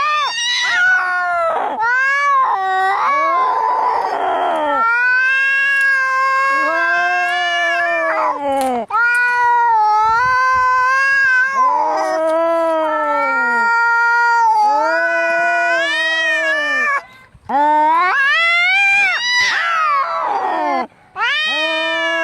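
Angry cats caterwauling: long drawn-out yowls that rise and fall in pitch, following one another almost without pause. A rougher, noisier cry comes about four seconds in and again near the end. These are the yowls of cats squaring up to fight.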